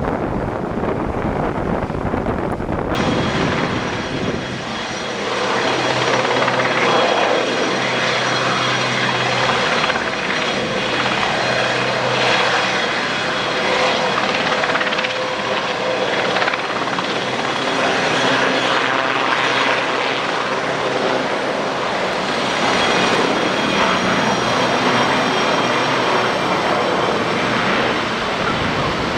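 Sikorsky Sea King helicopter's twin turboshaft engines whining steadily over the throb of its rotors. The sound changes abruptly about three seconds in.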